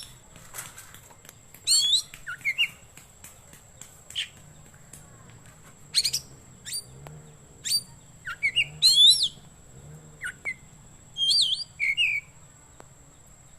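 Oriental magpie-robin (kacer) singing: a string of short, sharp whistled phrases with quick rising and falling glides, about a dozen of them spaced a second or so apart.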